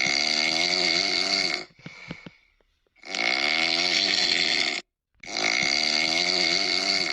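A sleeping person snoring: three long snores of about two seconds each, with a short faint breath after the first and the last.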